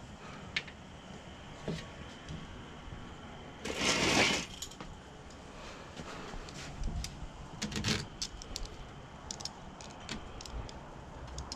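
Small handling noises from screen-door repair work: a brief scraping rustle about four seconds in, then scattered light clicks and taps.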